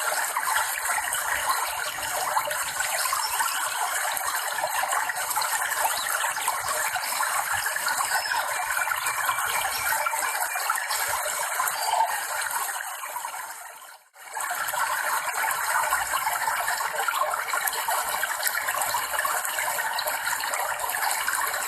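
Running water, a steady rushing and splashing that fades out briefly and then returns about fourteen seconds in.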